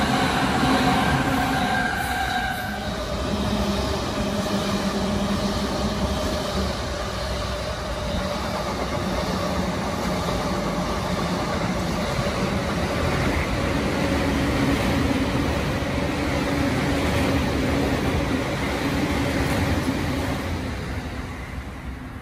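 Electric commuter trains passing on several tracks: steady wheel-and-rail noise with the whine of their traction motors. One train's whine fades about three seconds in, a second whine comes in about halfway through, and the sound dies away near the end.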